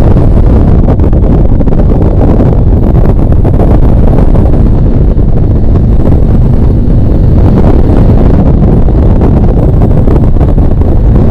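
Harley-Davidson V-twin motorcycle engine running steadily while riding at speed, mixed with heavy wind buffeting on the microphone.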